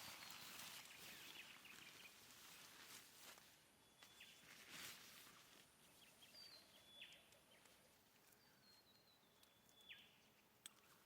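Near silence in the open air, with faint short bird chirps several times in the second half and a couple of soft rustles.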